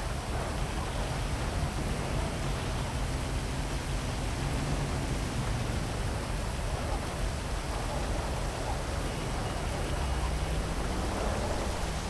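Steady heavy rain hiss over a city, with the low hum of traffic underneath that slowly rises and falls in pitch, climbing near the end.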